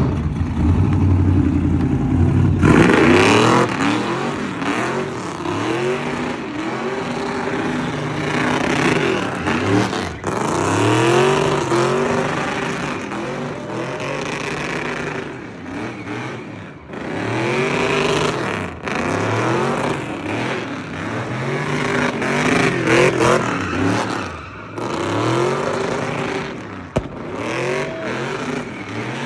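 A vehicle doing donuts: its engine revs up and falls back again and again, over a steady hiss of tyre noise.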